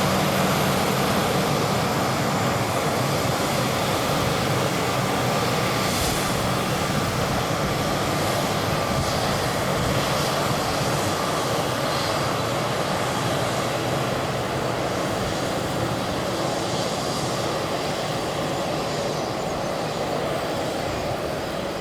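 Embraer E190's General Electric CF34 turbofan engines running at taxi power: a steady jet rush with a faint held whine, slowly getting quieter.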